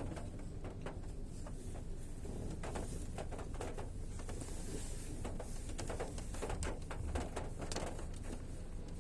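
Rain falling, a steady low rush with irregular drops ticking and pattering throughout.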